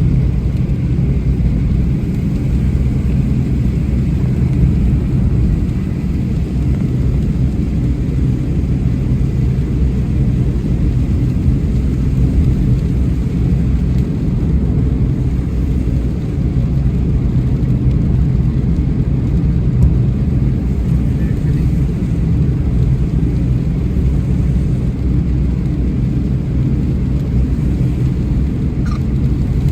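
Steady low rumble of a car driving, with no distinct thunderclaps.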